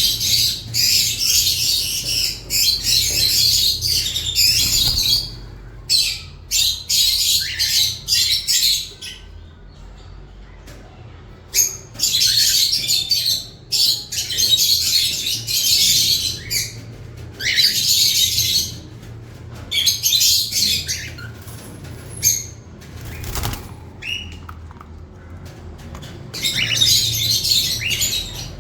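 Aviary of cockatiels and lovebirds, the birds chattering and squawking in shrill bursts a second or two long, with short lulls between.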